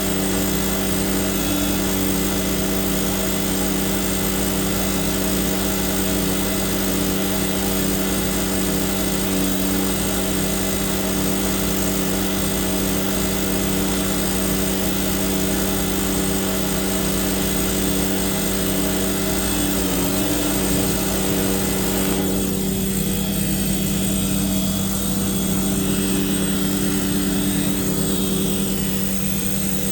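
Tanker truck's pump and engine running steadily while sucking up heavy grease and oil, a constant drone. The thick load is hard for the pump to pull. About two-thirds of the way through, some of the higher hiss drops away while the drone carries on.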